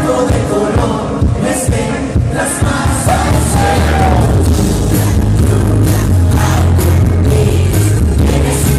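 Live band music with singing and a steady drum beat, heard loud and full of bass, with a crowd singing along in the mix.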